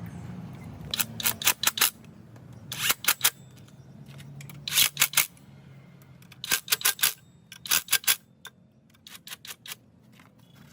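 Sharp clicks in quick runs of three to five, repeated every second or two and fainter near the end, over a faint low hum.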